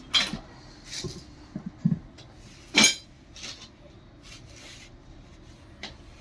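Scattered metallic clinks and knocks of metal pump parts and tools being handled and set down, with one sharper clank a little under three seconds in.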